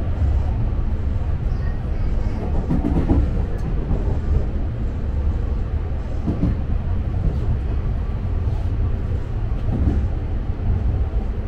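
Electric commuter train running at speed, heard from inside the front car: a steady low rumble of wheels on rail, with a few brief louder swells.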